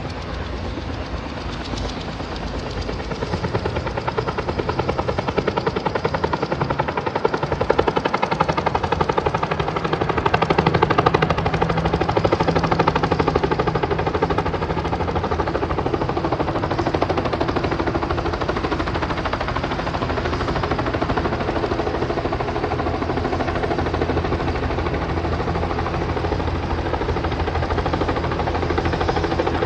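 Turbine helicopter's rotor blades beating in a rapid, regular chop over a steady engine drone, growing louder over the first few seconds and then holding steady.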